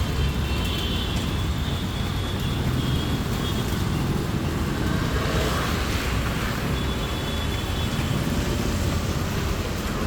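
Road traffic noise, with a vehicle passing about halfway through and a steady low rumble underneath.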